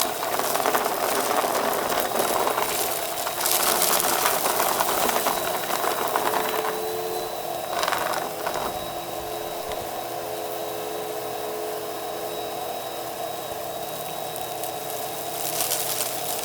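Vacuum cleaner running steadily while its brushroll crunches up debris, with louder crunching through the first half, a short burst about eight seconds in, and more near the end.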